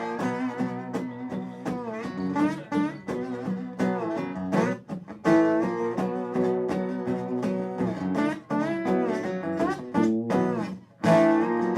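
Guitar playing the song's instrumental intro: picked and strummed notes, some of them bent in pitch, with a short break between phrases near the end.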